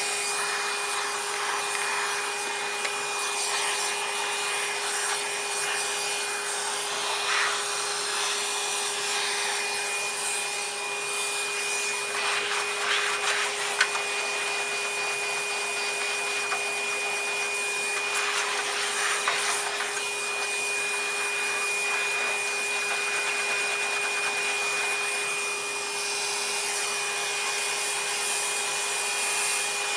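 Vacuum cleaner running steadily with a constant whine, its nozzle sucking caked dust and debris out of the inside of an old vacuum cleaner's hood. A few louder scrapes come and go along the way.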